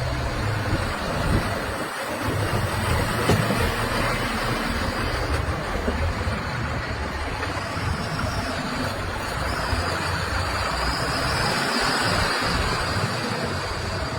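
Heavy diesel machinery engine running steadily, a continuous low rumble with a faint high whine coming in about halfway through.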